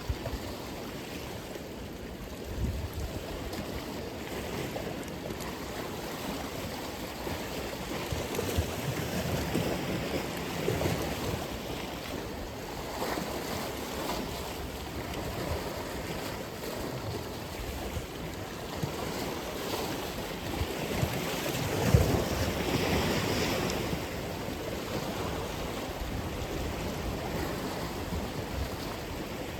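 Atlantic Ocean waves breaking on the shore, a continuous wash of surf that swells and recedes, with the loudest wave crashing about two thirds of the way through. Some wind buffets the microphone.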